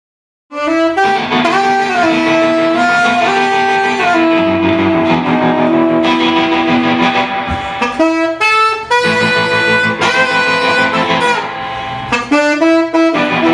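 Saxophone playing a slow melody of long held notes over guitar, in a dark surf and horror jazz style. It comes in after a moment of silence.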